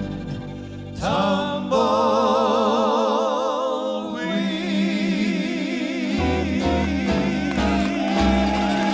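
Male vocal harmony group with a country-western band singing the closing line of a song, drawing out the final words in long held harmony notes with vibrato.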